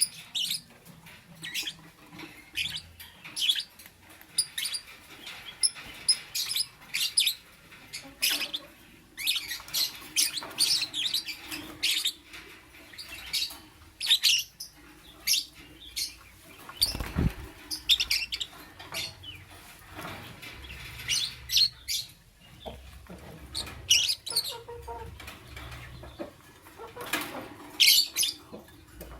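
Lovebird chirping in many short, sharp, high-pitched calls, in irregular bursts, with a single dull bump about seventeen seconds in.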